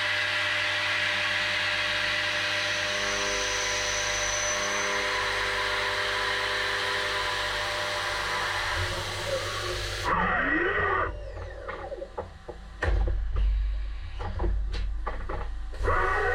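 Haas Super Mini Mill CNC milling machine cutting aluminium, a steady noise with faint steady tones. About ten seconds in the cutting noise stops abruptly and the spindle's whine sweeps down and back up, followed by a series of clicks and knocks, and the whine sweeps again near the end.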